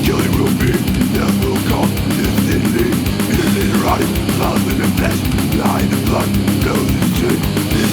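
Instrumental death metal passage with distorted electric guitars and rapid, evenly driven drumming, without vocals.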